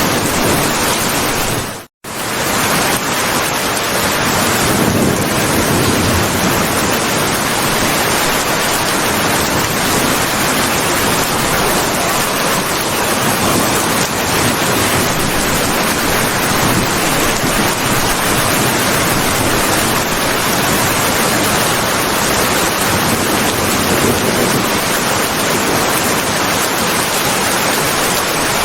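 Heavy rain falling, a dense, steady hiss. It cuts out to silence for a split second about two seconds in.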